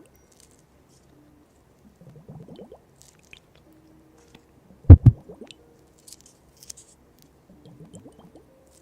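Close-miked squishy, wet-sounding ASMR handling sounds in soft clusters, with a loud double thump about five seconds in.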